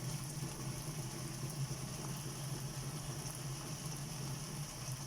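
Tomatoes sautéing in oil in a pan over a low flame: a soft, steady sizzle with faint crackles, over a steady low hum.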